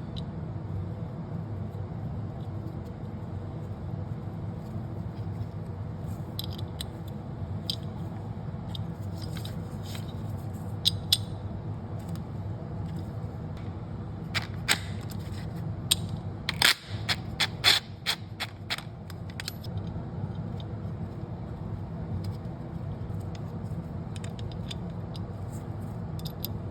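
Scattered clicks and scrapes of plastic and metal parts being handled as fog light assemblies and their bolts are fitted into a bezel, with a burst of sharp clicks a little past the middle, over a steady low hum.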